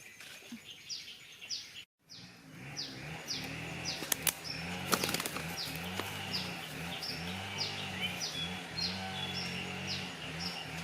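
A bird calling over and over, a short falling chirp about once or twice a second. After a brief cut about two seconds in, a steady low hum and a few sharp clicks run under the chirps.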